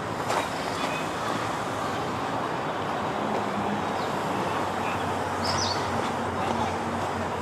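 Steady road traffic noise, with a low engine hum over the middle seconds and one short high chirp about five and a half seconds in.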